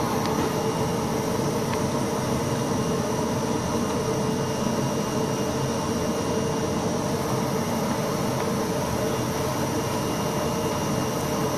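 Flatbed CNC digital cutter running, a steady mechanical hum with a constant drone that does not change.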